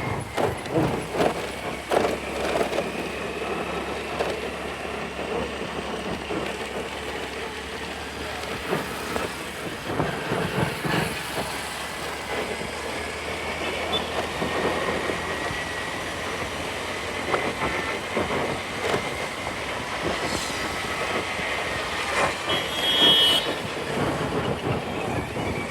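Ride on a scooter through city traffic: the scooter running with road and wind noise, scattered knocks, and a thin whine that slowly rises and falls in pitch.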